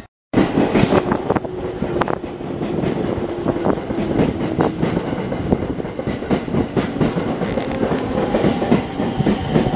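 Sotetsu 12000 series electric train moving off, its wheels clacking over rail joints, with a faint motor whine slowly rising in pitch as it gathers speed.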